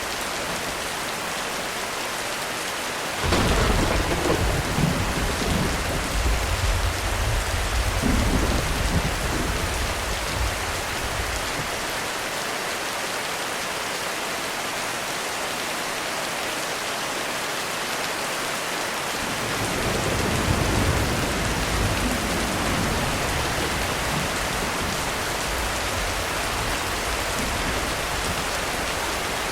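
Heavy rain falling steadily, with a sudden clap of thunder about three seconds in that rolls on for several seconds, and a second, softer roll of thunder that swells and fades about two-thirds of the way through.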